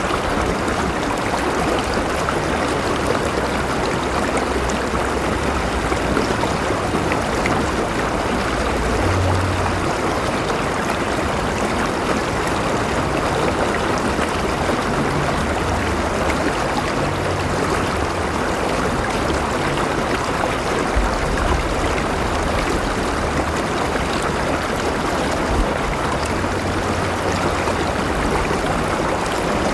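A river flowing: steady rushing and gurgling water, with occasional deeper low rumbles.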